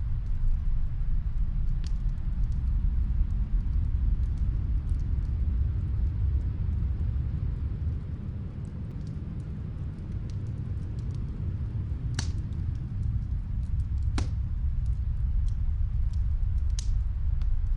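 Muffled snowstorm wind as a steady low rumble, with a few sharp pops of a crackling wood fire heard from another room.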